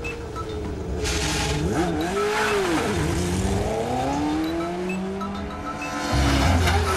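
Car engine at high revs, its pitch climbing, dipping and climbing again as it accelerates through the gears. A car rushes past loudly near the end.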